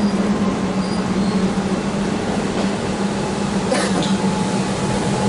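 Electric suburban train, a Comeng set, approaching and running into the platform, a steady rumble with a low hum that grows slightly louder as it nears. A short click sounds about four seconds in.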